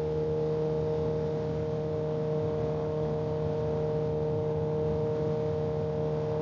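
Kawasaki ZX-10R's inline-four engine running at a steady, unchanging speed while cruising, with wind and road noise under it. The pitch holds level throughout.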